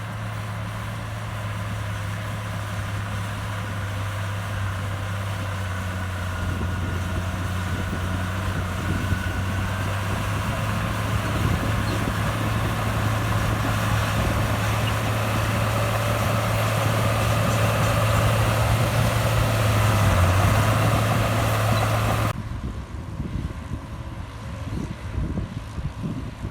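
Heavy diesel engine of earthmoving machinery running steadily with a deep hum, growing gradually louder. About 22 seconds in it cuts abruptly to a quieter, more uneven engine sound.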